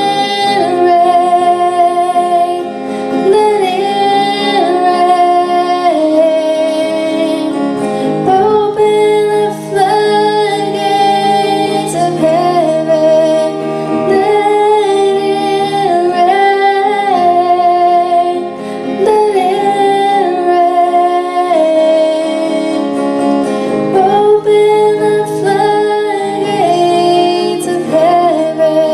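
A female voice singing held, gliding notes over guitar accompaniment, in a worship-song cover.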